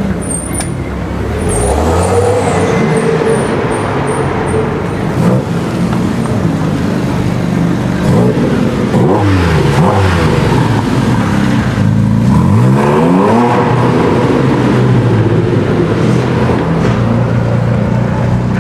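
Supercar engines running and revving as cars pull away. The engine note climbs in several accelerations, about eight to ten seconds in and again around twelve to thirteen seconds in, over a steady low engine drone.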